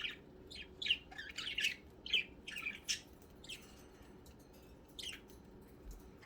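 Pet budgerigars chirping: quick, high chirps come thick in the first three seconds, then a few scattered ones after a short lull.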